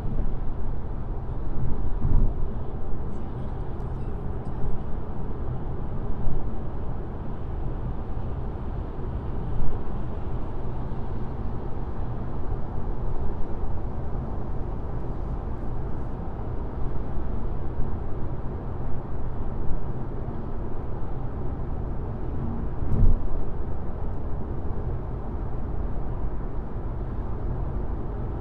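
Car driving at highway speed: steady, low tyre and road noise with engine hum, broken by a brief thump about two seconds in and another near the end.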